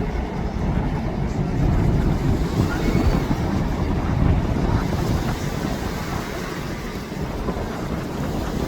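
Strong wind buffeting the microphone in gusts, a heavy low rumble of wind noise.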